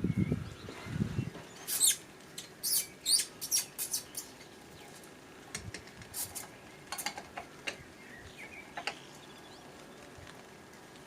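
Handling noise while fitting a doorbell and its wires into the wall: scattered short clicks, taps and scrapes of small hard parts, busiest in the first few seconds and sparser later, with a few low thuds at the very start.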